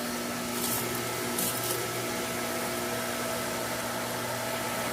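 Newly installed pool pump motor running with a steady, quiet hum.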